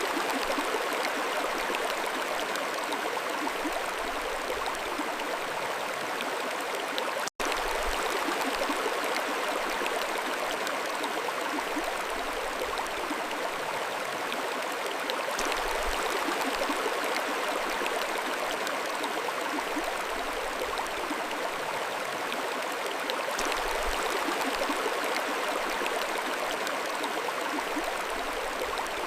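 Mountain stream flowing steadily, a continuous rush of water. The sound cuts out for an instant about a quarter of the way in.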